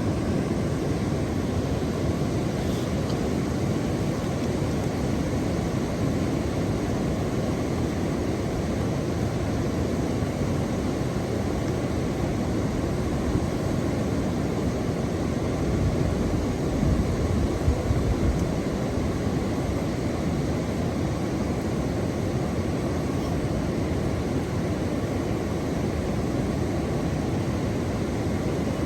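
Steady, deep rushing noise of natural ambience, with a slight swell about two-thirds of the way through.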